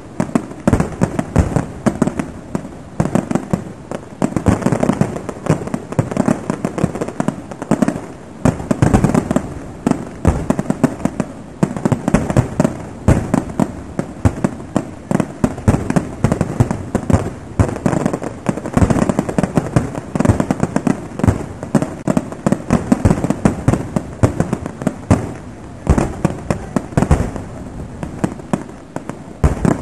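Fireworks display: aerial shells bursting in a dense, unbroken run of bangs and crackle, many each second.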